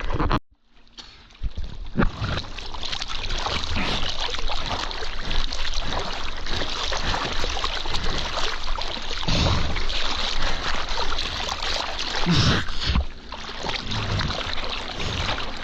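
Rushing water and wind noise on a POV camera microphone while surfing behind a jet ski, loud and steady. The sound cuts out almost completely for about a second early on, then comes back.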